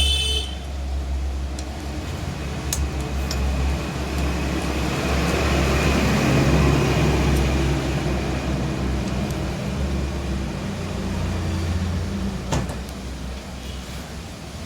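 A motor running steadily with a low hum, with a few sharp clicks, most clearly about two and a half seconds in and again near the end.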